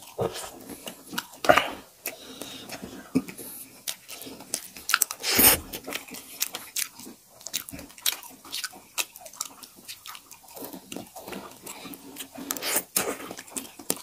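Close-up mukbang eating sounds: two people chewing mouthfuls of spicy noodles and rice, with many short clicks and scrapes of a fork against a steel plate.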